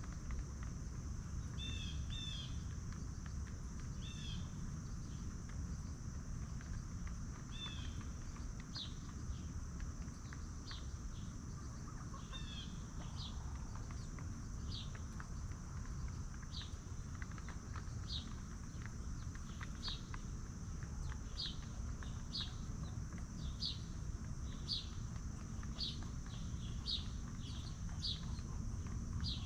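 Small birds chirping in short repeated calls, sparse at first and then about one a second, over a steady high insect drone and a low background rumble.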